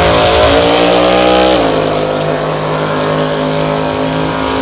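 Fox-body Ford Mustang drag car's engine held at high revs during a burnout, its pitch creeping up and then dropping about a second and a half in to a lower, steady note as the car rolls out of the smoke.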